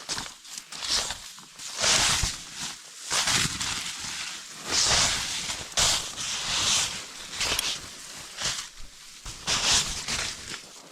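Irregular crunching steps in snow, a short crisp crunch about every second, uneven in spacing and loudness.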